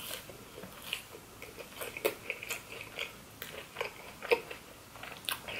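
Close-miked chewing with wet mouth clicks, from eating fast food dipped in cheese sauce; a string of short, irregular ticks.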